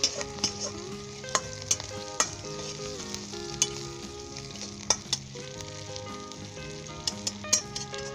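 Onion, green chilli, cumin seeds and dried fenugreek leaves sizzling in hot oil in an iron karahi, frying for a tarka. A metal spatula stirs them and clicks and scrapes irregularly against the pan.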